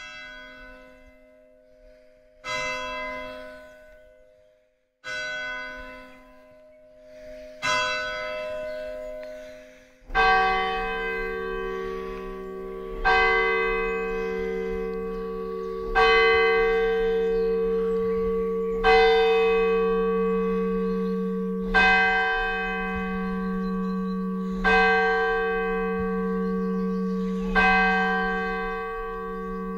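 Church bells ringing. A lighter bell strikes about every two and a half seconds. About ten seconds in, a deeper, louder bell takes over, struck about every three seconds, and each stroke rings on into the next.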